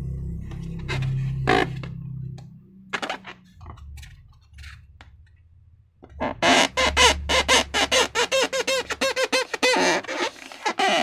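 Slime being squeezed and worked by hand: a few scattered small clicks and sticky pops at first, then, from about six seconds in, a rapid run of wet squelches and air-bubble pops, several a second.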